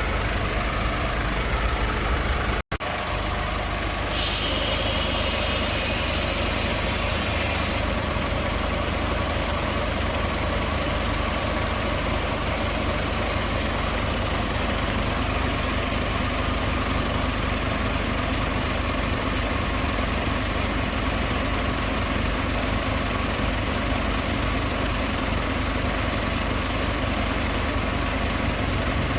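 Scania S500 truck's 13-litre inline-six diesel idling steadily. A hiss rides over it for about three and a half seconds starting some four seconds in, and the sound drops out for an instant just before.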